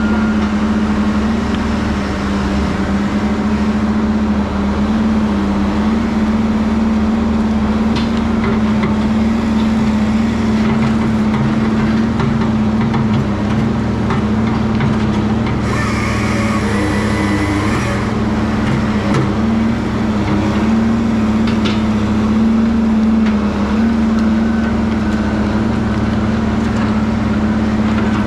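Heavy diesel engine of logging equipment running steadily, its pitch wavering a little. About two-thirds through, a hiss with a faint whine lasts about two seconds.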